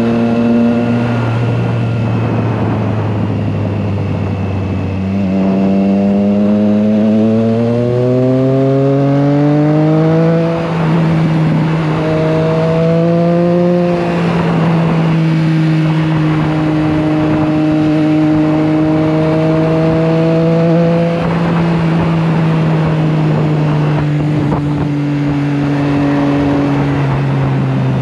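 Triumph Trident 660's inline three-cylinder engine running on the road, with a steady rush of wind. The engine note climbs for several seconds starting about five seconds in, dips briefly around ten seconds in, rises again and holds steady, then slowly falls near the end.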